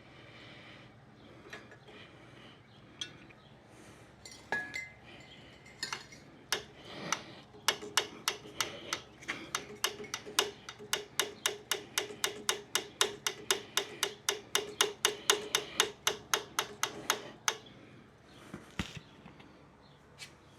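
Fuel pump priming lever on a 1929 International M engine worked rapidly by hand, a fast, even run of clicks about four a second for some ten seconds, beginning a third of the way in, pushing fuel up toward the carburettor. A few scattered knocks come before and after.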